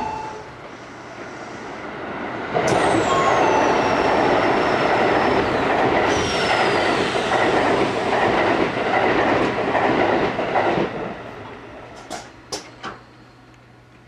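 Odakyu 8000 series electric train pulling away under its Mitsubishi SiC-VVVF inverter: high whines that glide downward in pitch, twice. Under them is a loud rush of wheels on rail lasting about eight seconds, then the running noise dies down, with a few sharp clicks near the end.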